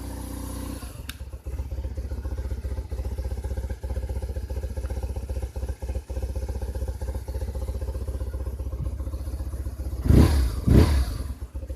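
BMW R 1100 RT's flat-twin boxer engine idling, still cold. About a second in, with a click, the choke comes off and the fast idle drops to a lower, pulsing idle. Near the end the throttle is blipped twice.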